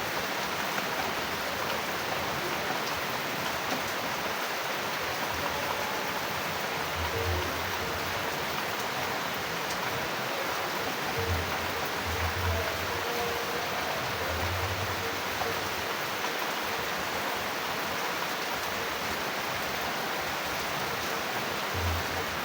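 Steady heavy rain: a dense, even hiss, with a few brief low rumbles now and then.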